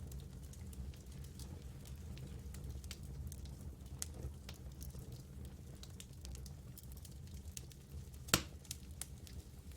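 Campfire crackling: scattered small pops and ticks over a low steady rumble, with one loud sharp snap about eight seconds in.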